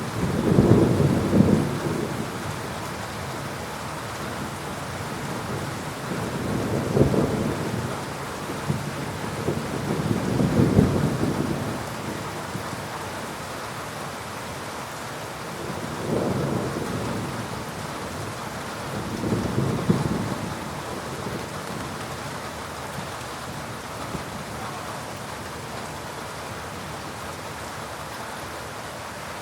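Thunderstorm: steady heavy rain with rolling thunder, about five low rumbles that each swell and fade over a second or two, the loudest near the start and around ten seconds in.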